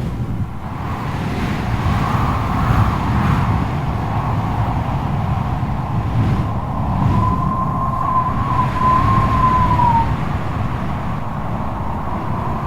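Strong wind howling over a heavy, gusting low rumble, with a wavering whistle held near one pitch. The whistle comes through clearly for a few seconds past the middle, then dips in pitch and fades.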